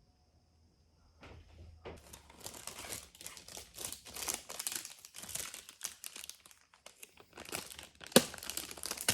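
Plastic packaging crinkling and rustling as it is handled and torn open, with a sharp snap about eight seconds in.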